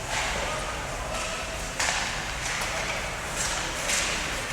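Ice hockey play: skate blades scraping the ice in about five short hissing strokes, over a steady background of voices.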